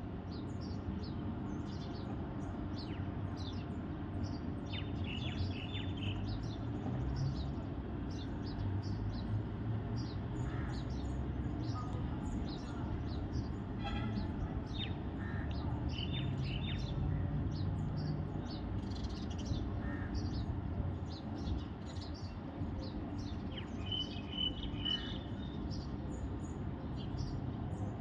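Small birds chirping: many short, high chirps throughout, some in quick trills, over a steady low rumble.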